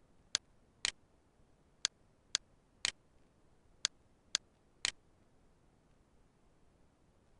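Eight sharp clicks of a computer mouse button, about half a second apart in short runs with brief gaps, over a quiet background.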